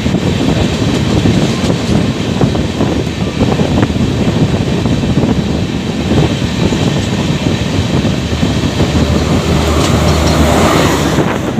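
Passenger express train passing close alongside on the next track, its coaches rumbling and clattering over the rails, mixed with the running noise of the train it is heard from. The clatter drops away near the end as the last coach goes by.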